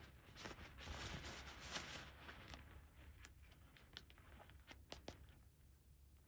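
Faint handling of a plastic toy play set and its packaging: crinkly rustling for about the first two and a half seconds, then a few light, separate clicks of small plastic pieces.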